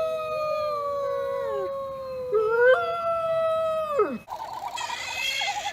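Wolves howling in chorus: two or more long, slowly falling howls overlap, one climbing briefly before all drop away after about four seconds. A different rapid warbling animal call follows near the end.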